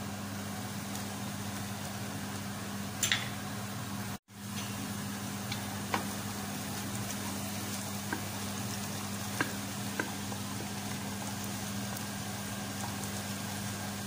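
Diced onion and garlic sizzling in hot oil in a pot while a wooden spatula stirs them, tapping the pot a few times. A steady low hum runs underneath, and the sound cuts out for a moment about four seconds in.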